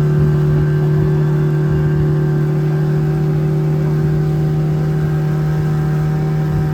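Boat's outboard motor running steadily at constant speed, a loud, even drone that neither rises nor falls.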